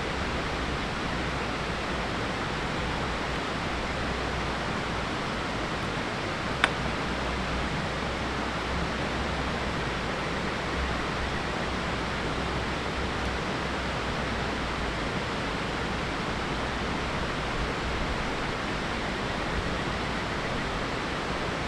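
Mountain stream rushing steadily, with one sharp click about seven seconds in.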